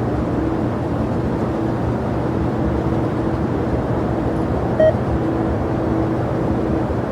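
Steady rumble of jet aircraft engines at an airport, with a constant low hum. A short beep sounds once about five seconds in.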